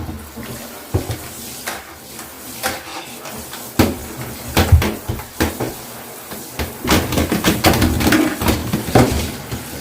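Irregular knocks and clatter of hard objects being handled and set down in a small bathroom, getting busier in the second half.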